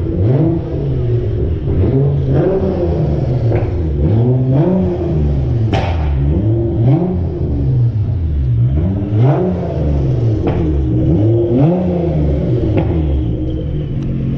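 A car engine revved over and over in a steady rhythm, its pitch climbing and dropping roughly every two seconds: free revs with the car standing still.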